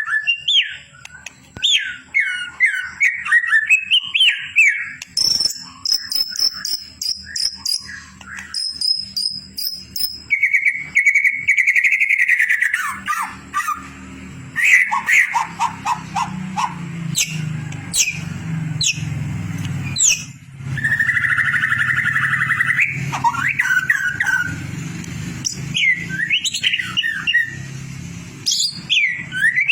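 White-rumped shama singing a varied song of whistled notes, rising and falling phrases, chatter and fast trills: tutor song played to train contest songbirds. A low steady hum joins underneath about a third of the way in.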